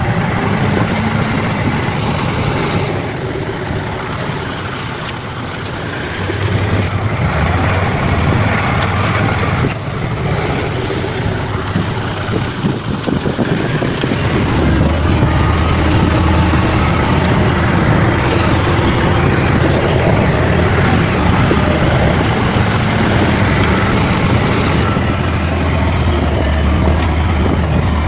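Bulldozer's diesel engine running steadily with a deep hum, getting louder about halfway through.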